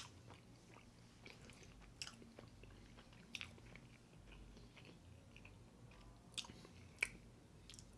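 Person chewing food, faint, with a few sharp mouth clicks spread through; the loudest is about seven seconds in.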